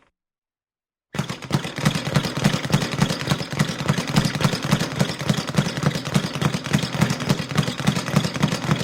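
Light boxing punches landing in a fast, even flurry, many blows a second, starting about a second in after silence.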